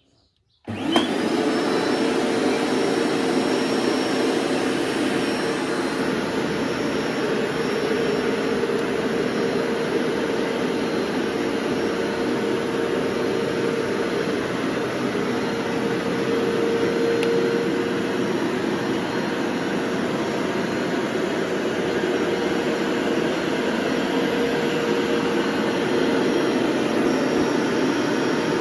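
Upright carpet washer switching on about a second in, its motor winding up with a brief rising whine, then running steadily with a constant hum under the suction noise.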